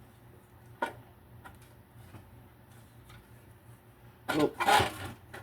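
Hand tools and small metal parts of a generator being handled during disassembly: a few light clicks, then a louder rattling clatter near the end.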